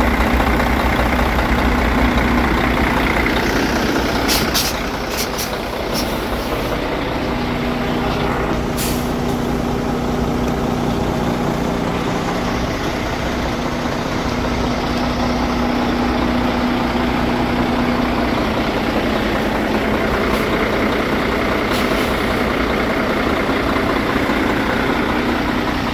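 Diesel semi-truck engine idling steadily, with several short hisses of air from the air brakes being applied and released: a cluster about four to six seconds in, another around nine seconds, and two more a little past twenty seconds.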